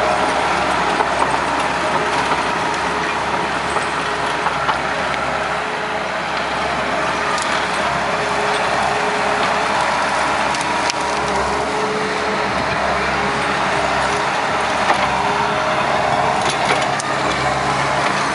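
Takeuchi TL150 compact track loader's diesel engine running steadily under load as it root-rakes, with scattered sharp cracks and snaps of roots and sticks being pushed and broken.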